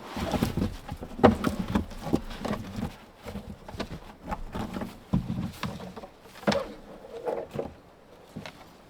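A dense, irregular series of short knocks and thumps that quiets near the end.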